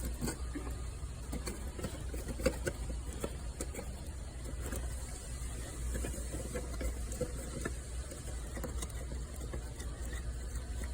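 Small clicks and scrapes of hands handling and threading an oil filter housing cap onto a Land Rover Discovery engine, over a steady low hum.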